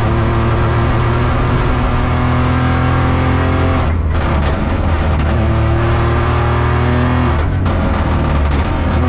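In-car sound of an Opel Corsa Rally4's turbocharged three-cylinder engine running hard at speed on a rally stage. The engine note breaks off briefly twice, about four seconds in and again about seven and a half seconds in, then comes back.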